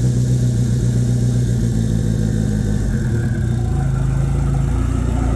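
Mitsubishi 4G63 inline-four engine idling roughly on a cold start after sitting for months, held running with a little throttle. Its note shifts about three seconds in.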